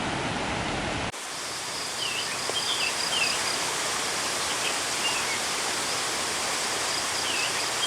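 Rushing water of a waterfall, which changes after about a second to a softer steady rush of water. Over it birds chirp several times and a thin steady high tone runs.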